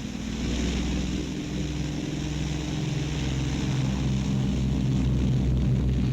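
Piston-engined propeller aircraft droning steadily, growing a little louder near the end, on an old film soundtrack.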